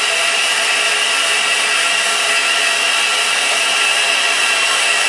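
Steady hiss of escaping steam in the cab of Southern Railway No. 630, an Alco 2-8-0 Consolidation steam locomotive, holding level with no exhaust beat.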